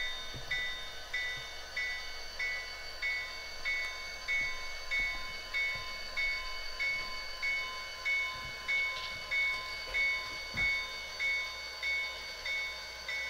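Model locomotive bell from the SoundTraxx Tsunami2 sound decoder in an HO-scale Athearn Genesys Norfolk Southern GP40-2, ringing steadily at about one and a half strokes a second as the train moves into the yard.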